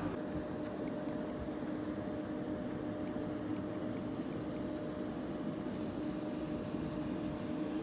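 Steady droning hum of a Boeing 737-700 cabin, with a constant low tone and a fainter one an octave above.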